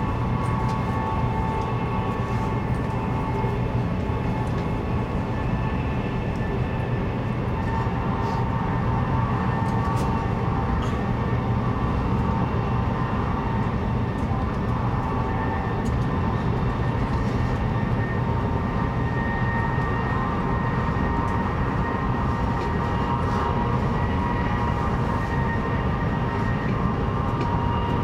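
Cabin noise of a CRH2 high-speed train under way: a steady rumble of the running gear with several steady high whining tones over it and a few faint ticks.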